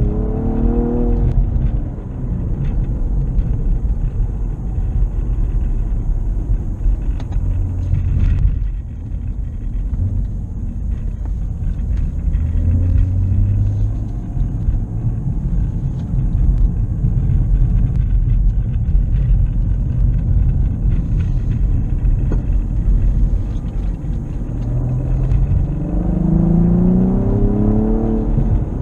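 2016 Cadillac ATS-V's twin-turbo V6 under way, with a heavy low rumble throughout. The engine pitch climbs as it accelerates through a gear just after the start, and again near the end.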